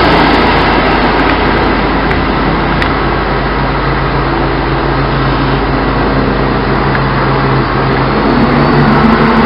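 ScotRail Class 170 Turbostar diesel multiple unit running, its underfloor diesel engine droning steadily. The engine note rises near the end.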